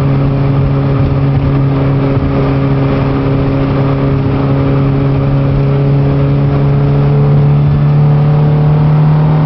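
Classic Mini's A-series four-cylinder engine running steadily at cruising speed, heard from inside the cabin along with road and tyre noise; the engine note creeps slightly higher near the end.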